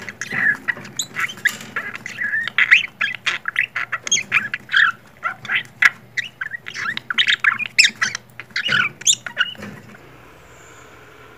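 Pet birds squawking and chattering in a rapid run of short, sharp calls that stop about ten seconds in.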